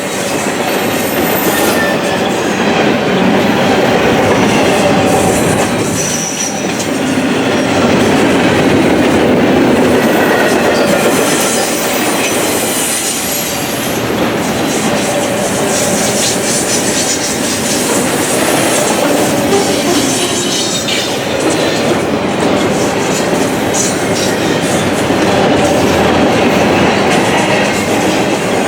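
Norfolk Southern intermodal freight train rolling steadily past, its wheels clicking over the rails with a few brief high wheel squeals.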